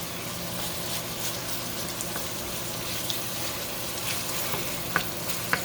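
Bite-sized chicken pieces frying in hot oil in a wok over medium-high heat: a steady sizzle with a few sharp pops of spitting oil, two of them near the end.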